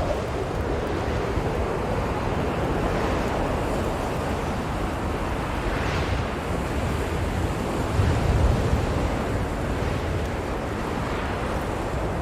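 Blizzard wind blowing steadily with a deep rumble, swelling in a stronger gust about eight seconds in.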